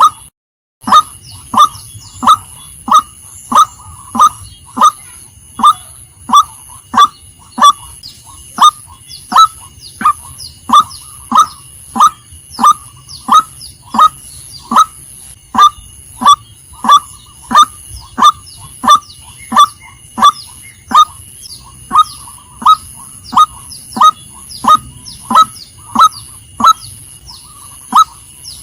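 Female white-breasted waterhen calling: a short, loud note repeated evenly, a little under twice a second, with no let-up. Behind it runs a faint steady high-pitched whine.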